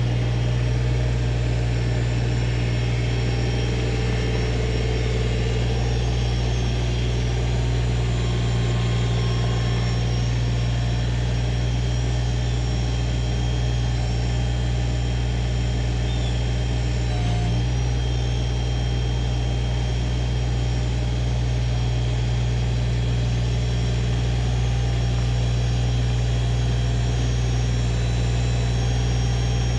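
Engine idling steadily at an even, unchanging speed.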